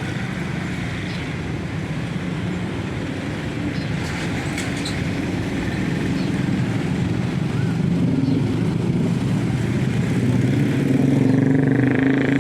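A motor engine running steadily, its low hum getting gradually louder.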